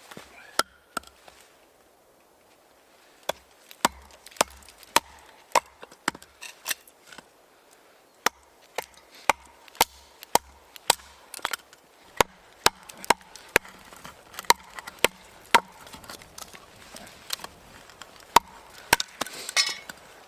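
A blade chopping into wood: a long run of sharp, separate strikes at about one or two a second, irregular in spacing, with a short rustle near the end.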